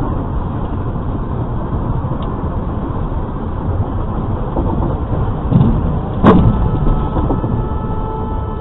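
Steady road and engine noise inside a moving car, recorded by a dashcam microphone, with a single sharp bang about six seconds in.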